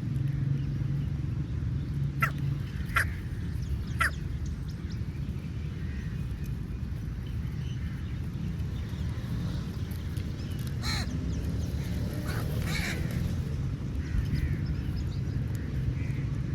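Crows cawing: a few short, sharp calls spaced several seconds apart, over a steady low rumble.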